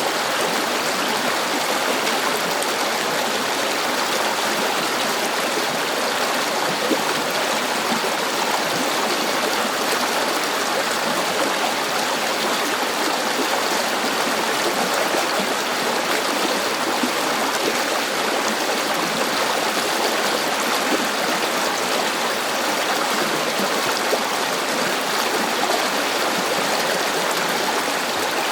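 River water flowing over rocks: a steady rushing and babbling with no pauses.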